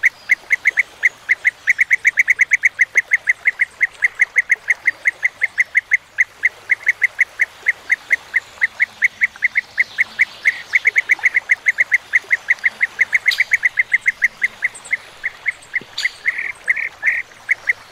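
European bee-eater calling: one short, clear note repeated rapidly and evenly, about five a second, breaking into a few longer notes near the end.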